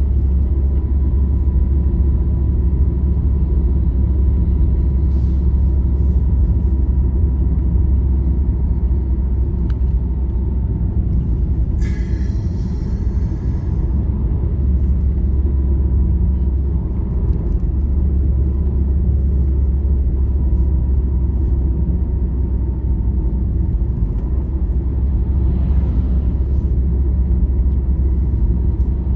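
Steady low road rumble of a vehicle driving on a highway, with a faint steady whine. About twelve seconds in there is one brief higher squeak.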